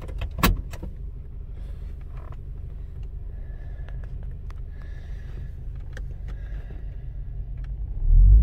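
Volvo 940 engine idling steadily, heard from inside the cabin, with a sharp click about half a second in. The low rumble grows louder near the end.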